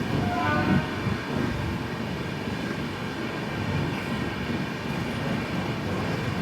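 Passenger express train heard from on board: a steady low running noise from the train, with a brief pitched sound about half a second in.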